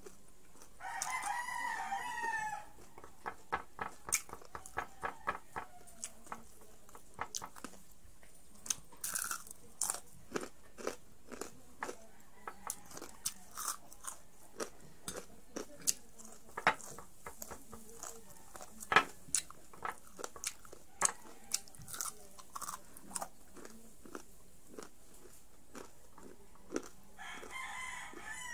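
Crisp, irregular crunches of fried pork strips being bitten and chewed close to the microphone, with the loudest crunch a little past the middle. A wavering animal call sounds in the background about a second in and again near the end.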